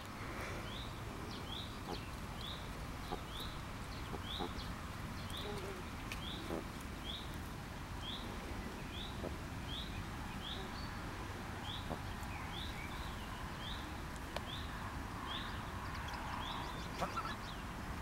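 A small bird chirping over and over, one short rising chirp roughly every two-thirds of a second, over a faint steady background. A brief faint clatter sounds near the end.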